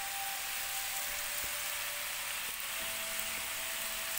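Pork-fat and skin cracklings sizzling steadily in hot fat in a pan, a continuous hiss of frying as they finish cooking.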